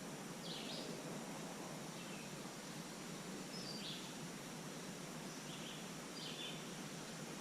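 A few short, high songbird chirps, spaced over several seconds, over a steady outdoor hiss.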